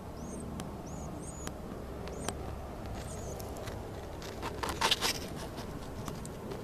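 Small birds giving short, high chirps, several in the first three seconds. A quick cluster of rustling clicks comes about four and a half seconds in, over a steady low background rumble.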